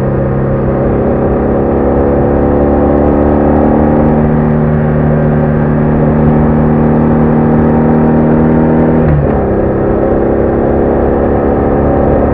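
BMW R1200R motorcycle's flat-twin (boxer) engine pulling at steady revs while riding, recorded on the bike. The engine note holds steady, dips briefly about nine seconds in, then settles again.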